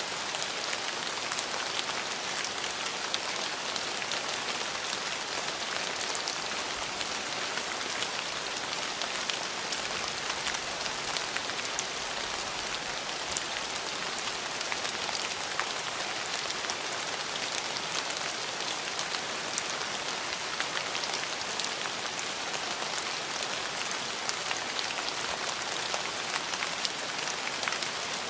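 Steady rain falling on hard surfaces: an even hiss with many small drop ticks, no thunder.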